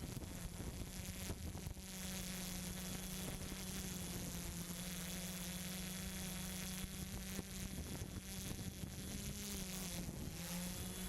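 Quadcopter drone's propellers buzzing steadily in flight. The pitch shifts slightly near the end.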